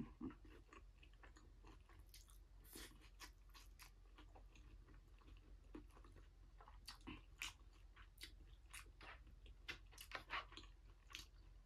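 Quiet close-up chewing and mouth sounds of someone eating curry rice, with scattered short clicks and smacks.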